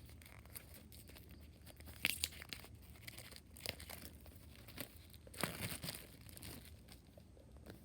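Packaging being handled and torn open: scattered crinkles and rustles of wrapping, the longest about five and a half seconds in.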